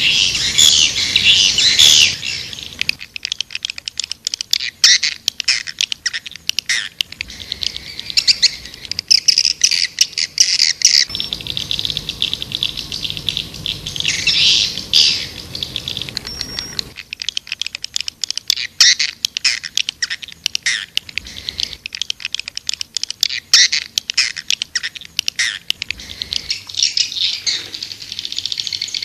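Swiftlets calling: dense high twittering chirps mixed with rapid trains of sharp clicks, swelling into louder bouts of twittering now and then. It is a looped swiftlet-house call sound, played to lure swiftlets in to roost and nest.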